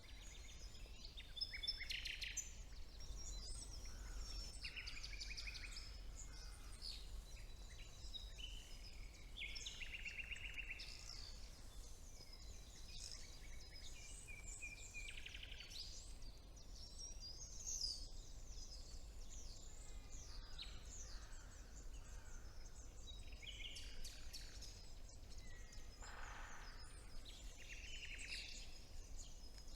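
Chorus of woodland songbirds, several birds singing overlapping trills, chirps and whistled phrases without pause, over a low steady background rumble.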